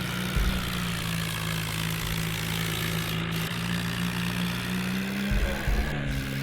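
Tractor engine running at a steady speed, with low bumps and rumbles about half a second in and again near the end.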